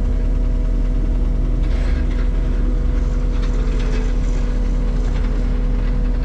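2017 John Deere 331G skid steer's diesel engine running steadily at idle, with brief higher rattling about two seconds in and again in the middle.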